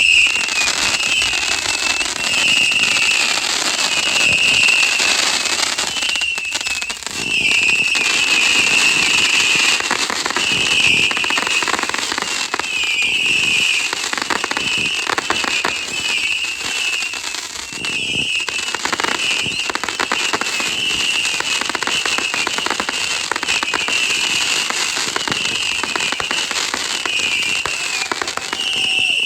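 Consumer fireworks going off continuously: dense, loud crackling that starts abruptly, with a shrill whistling tone coming and going about once a second.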